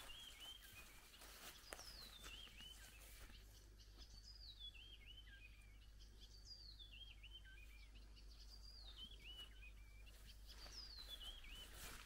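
A songbird singing faintly, a short sweet phrase that falls in pitch in looping notes, repeated about every two seconds over quiet rural ambience.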